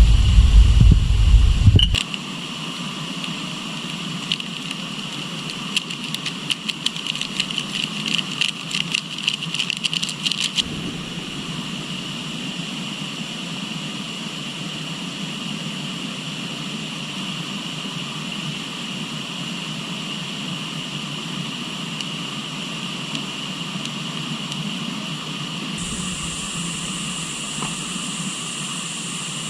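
Outdoor nature ambience: the steady rush of a river under a constant high drone of insects. A run of rapid clicking chirps comes in about six seconds in and stops about four seconds later. A loud low rumble in the first two seconds cuts off abruptly.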